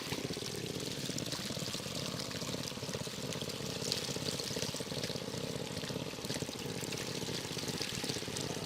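Water pouring in a steady stream, with a faint steady hum beneath it.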